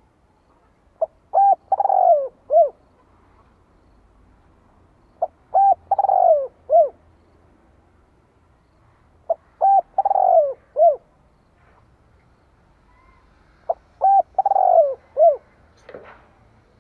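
Spotted dove (cu gáy) singing its territorial cooing song, the kind used as a decoy to provoke wild doves: four phrases about four seconds apart. Each phrase is a few short coos around a longer coo that falls in pitch. A faint click comes near the end.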